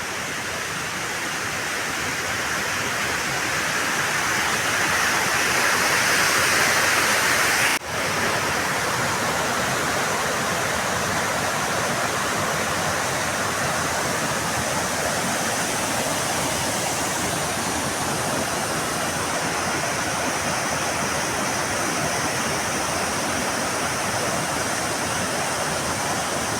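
Water rushing steadily along a stream or drain channel, a continuous hiss that swells over the first several seconds and then holds even, with a brief dropout about eight seconds in.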